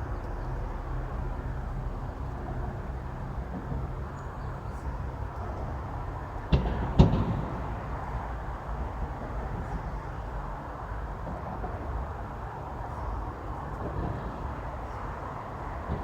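Steady outdoor background noise with a low rumble, broken a little under halfway through by two sharp knocks about half a second apart, the second one louder.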